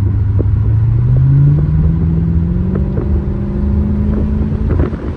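Chrysler 300C with a modified exhaust accelerating: the engine note climbs steadily for about four seconds over a low exhaust rumble.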